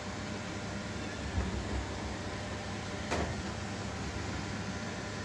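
A robot vacuum running with a steady hum, and a single sharp click about three seconds in.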